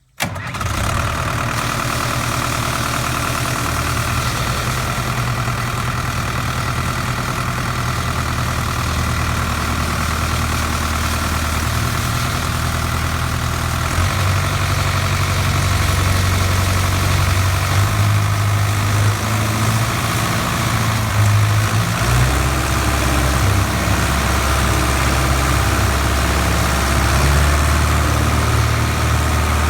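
Hatz diesel engine running steadily, driving a CH&E 6-inch pump. Its low running note shifts slightly about halfway through, and again later.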